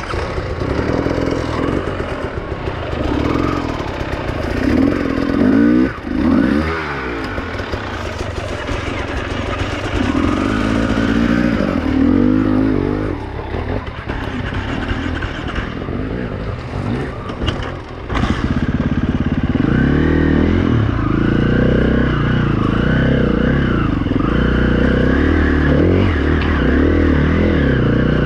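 2016 KTM 350 EXC-F four-stroke single-cylinder dirt bike engine revving up and down while riding trail, with clattering and scraping, getting louder about two-thirds of the way in.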